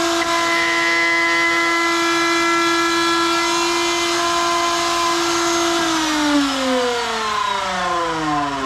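Electric motor of a shop tool running at a steady high whine, then switched off about six seconds in and spinning down, its pitch falling steadily.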